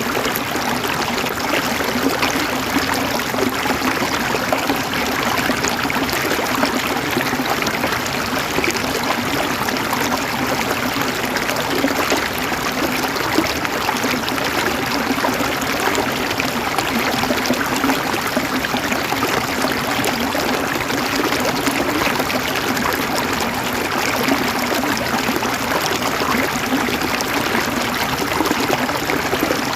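Stream water flowing and trickling over rocks: a steady, even rush of water with a low gurgle.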